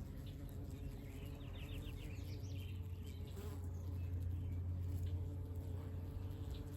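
Honeybees buzzing around their hives, the hum growing louder through the middle as bees fly close. A bird chirps a quick run of notes about a second and a half in.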